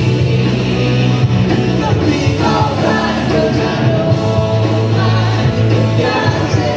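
Church worship band playing a song with singing: a full band with a steady bass line under the voices.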